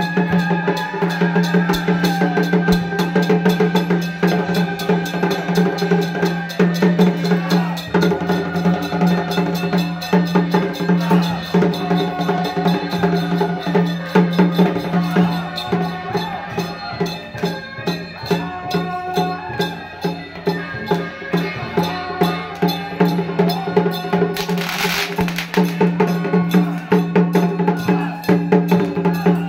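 Traditional Taiwanese temple-procession music: fast, steady drum and wood-block strokes over sustained pitched tones, with a short noisy burst about 25 seconds in.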